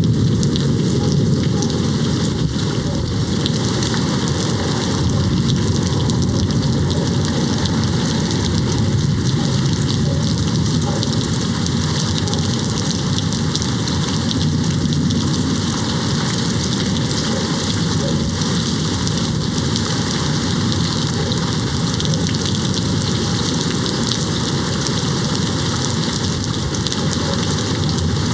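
Steady, even rain falling on a window pane: a continuous hiss of dense drops, with no distinct thunderclap.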